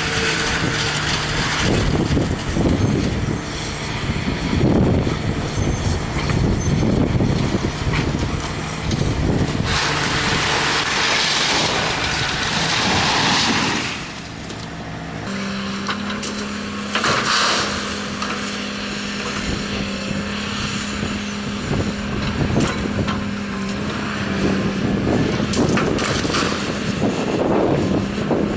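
Diesel engine of a demolition excavator running steadily, its hum stepping up to a higher pitch about halfway through, with bursts of noise a little before that.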